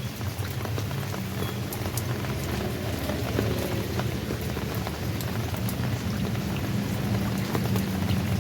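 Steady rainfall, with many separate drops ticking sharply on a surface over a low, steady rumble.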